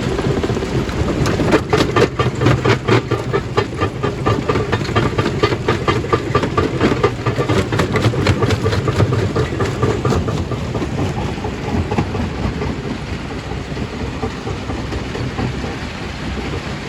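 Stone crushing machine running under load, with a steady low hum and rapid cracking and knocking of rock being broken for about the first ten seconds, then settling into a steadier rumble with fewer knocks.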